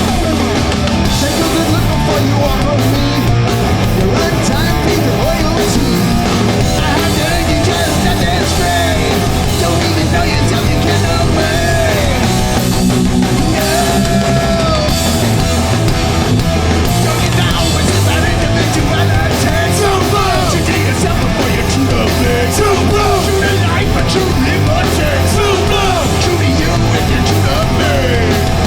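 Hardcore punk band playing a song live, loud and unbroken.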